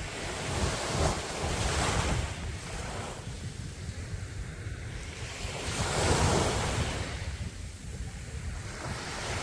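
Sea waves breaking on a beach, two surges washing in about a second in and again around six seconds in, over a steady low rumble of surf and wind on the microphone.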